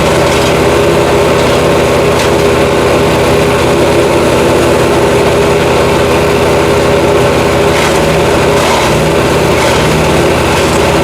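Jansen GTS-1500 wood chipper running steadily at speed, with a few faint sharp cracks about two seconds and eight seconds in.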